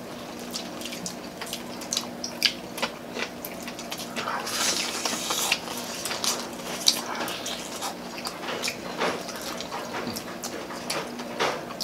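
Several people eating with their hands: wet chewing and lip-smacking, with many short clicks and smacks, and a louder stretch of crunching about four seconds in as crisp fried chicken is bitten.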